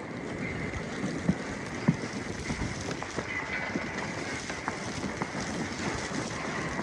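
Steady outdoor street noise in a snowstorm, a mix of wind and distant traffic, with scattered light taps and clicks.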